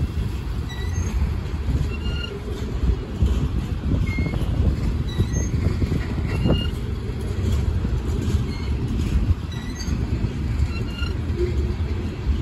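Coal cars of a long Union Pacific freight train rolling past: a steady low rumble of steel wheels on the rails, with short high squeaks here and there.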